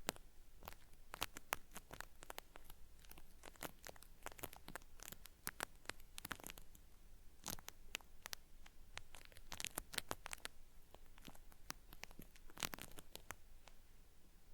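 Cotton swab rubbed against the ear of a binaural microphone, giving dry, crackly peeling scratches and clicks in irregular clusters, the 'paripari' ear-cleaning sound.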